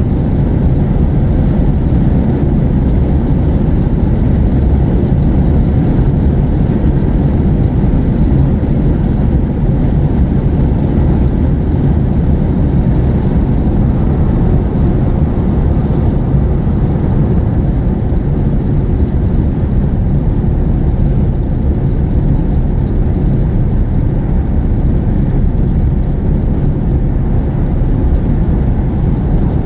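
Steady low rumble of a car on the move, engine and tyre noise heard inside the cabin.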